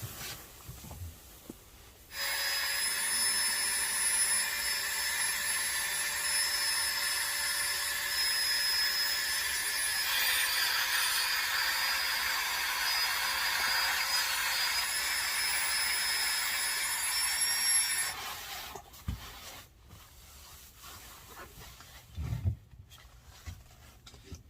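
A small high-speed electric motor runs with a steady whir and a high whine for about sixteen seconds, switching on abruptly and cutting off suddenly, with a slight drop in pitch about midway. A few soft knocks follow.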